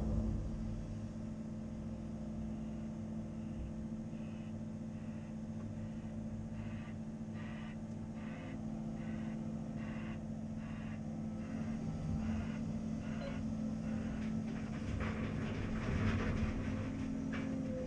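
Caterpillar 330 Next Generation excavator's diesel engine running steadily. Through the middle a high beep repeats about twice a second, and clattering sets in near the end.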